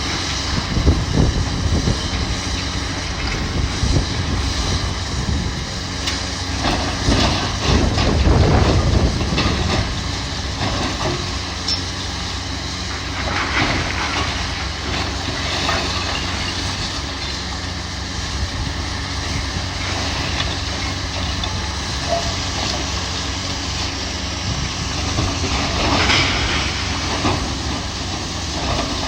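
Demolition machinery's diesel engine running steadily, with bursts of crunching and clattering as building debris is torn down and falls, several times.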